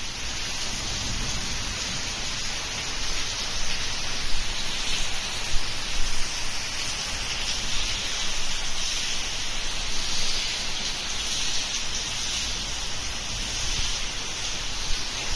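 Heavy rain falling steadily, with a few brief louder spatters about four to six seconds in.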